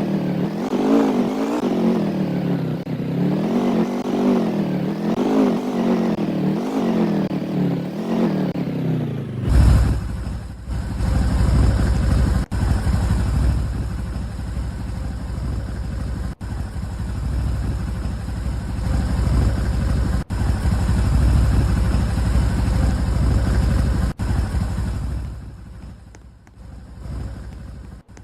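A vehicle engine whose pitch rises and falls over and over, about every second and a half, for roughly the first ten seconds. It then cuts suddenly to a loud, steady low rumble with brief dropouts every few seconds, fading near the end.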